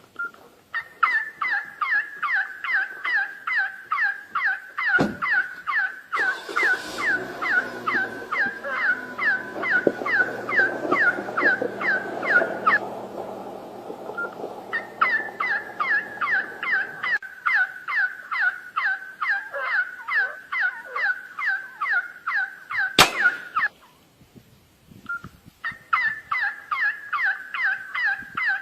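A bird's call repeated rapidly, about four short calls a second, in long runs broken by two pauses. A low hum and noise run under it through the middle stretch, and two sharp clicks stand out, the louder one near the end.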